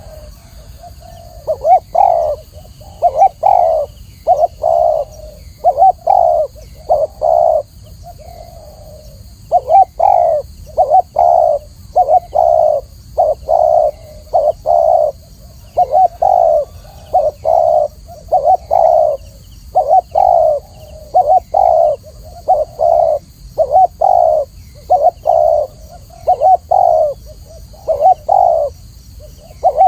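Spotted dove cooing: phrases of short, low, hoarse coos repeated again and again, with a brief pause about eight seconds in.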